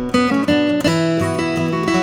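Acoustic guitar playing the instrumental intro of a song: strummed chords and picked notes ringing and changing every few tenths of a second.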